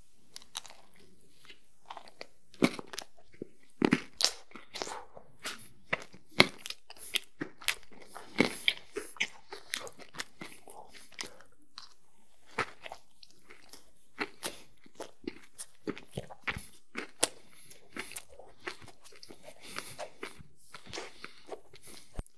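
Close-miked eating: biting into and chewing a chocolate cupcake topped with cream and candy-coated chocolates. There are many sharp crunches, thickest in the first half and more spaced out later.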